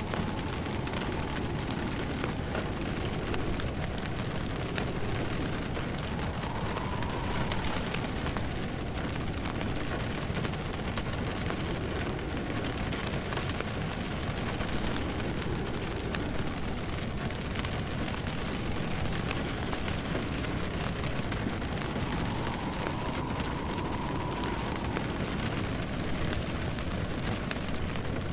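Steady rain mixed with a fireplace crackling, forming an even rain-and-fire ambience. A faint wind whistle swells and fades twice.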